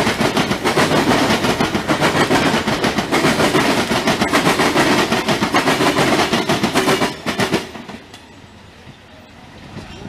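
Loaded Norfolk Southern coal hopper cars rolling past close by, their steel wheels clattering rapidly over the rail joints in a dense rattle. About three-quarters of the way through, the sound drops off abruptly to a faint rumble of the train's tail moving away.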